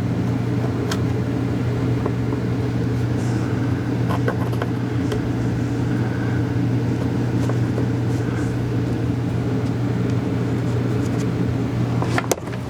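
Steady low mechanical drone with a constant pitched hum, cutting off abruptly about twelve seconds in. Light clicks and taps are scattered through it, with a cluster of sharper clicks just before it stops.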